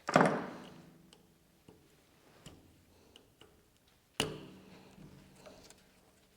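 Two sharp metal clinks about four seconds apart, each ringing briefly, with small ticks and taps between them: tools and small steel parts being handled on a mini metal lathe as its slide is taken apart.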